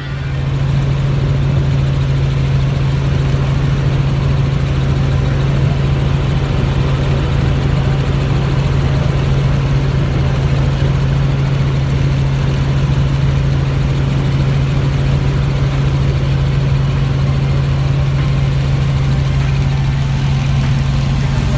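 Helicopter in cruising flight: a loud, steady low drone of engine and rotors over a constant rushing noise.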